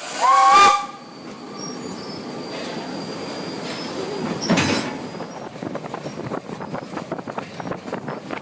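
1927 steam locomotive giving a short whistle blast that rises in pitch and then holds for under a second. The engine runs on with a loud hiss about four and a half seconds in, then a rapid, even, rhythmic beating.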